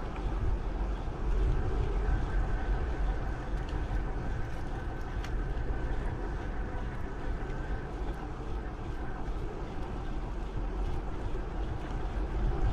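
Wind rumbling steadily on an action camera's microphone while riding a bike, with tyre noise and a few faint clicks and rattles.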